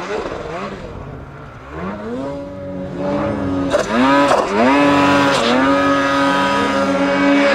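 Two-stroke mountain snowmobile engine revving. The throttle comes off right at the start, revs climb again about two seconds in, dip briefly just after four seconds, then hold high and steady.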